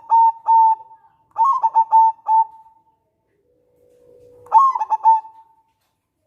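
Zebra dove (local perkutut) singing: three bursts of quick, clipped coos, each closing on a longer held note, with pauses between them.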